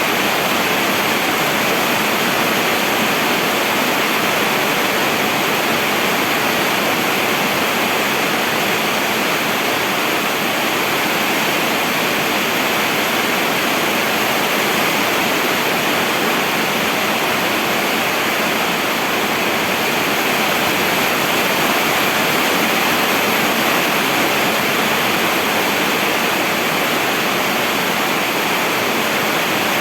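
Steady rainfall, a dense even hiss with no single drops or changes standing out.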